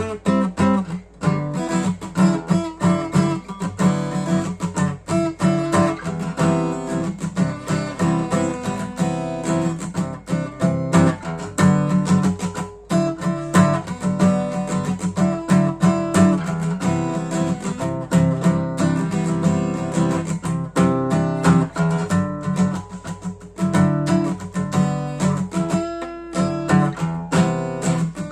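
Acoustic guitar playing an instrumental piece, notes plucked and strummed in quick succession.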